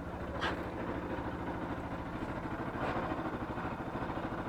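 Bajaj Pulsar RS200's single-cylinder engine idling steadily in neutral after warming up. A short click about half a second in and a fainter one near three seconds.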